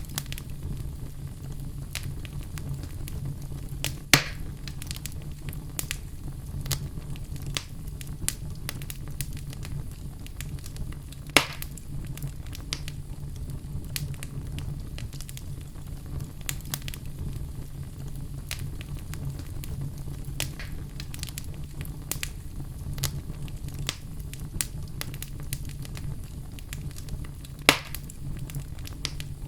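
Wood fire burning: logs crackling with frequent small sharp pops over a low steady rumble of the flames, and three louder snaps, about four, eleven and twenty-seven seconds in.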